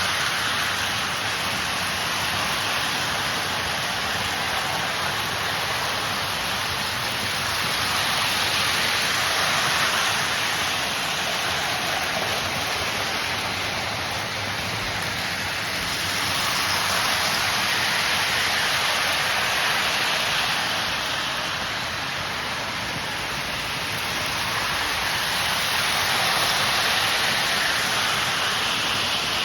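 O-gauge model trains rolling around three-rail track ovals, a steady whirring rumble of wheels on rail that swells and fades every eight or nine seconds as they circle the loop.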